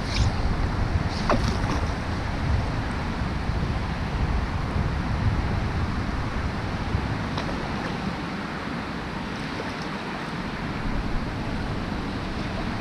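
Wind gusting across the microphone over a steady hiss of rain, with a few faint ticks.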